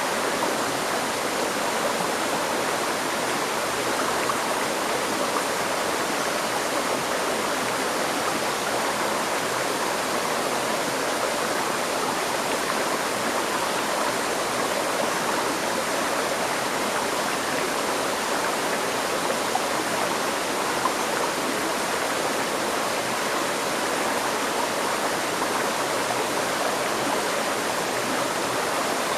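A river stream flowing steadily, an even rush of water with no breaks.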